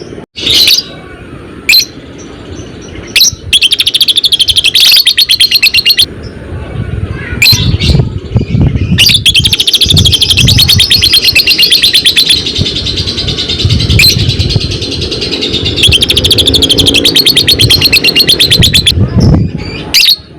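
Lovebird 'ngekek': long, rapid-fire chattering trills, three long runs with short sharp chirps between them. A low rumble runs underneath.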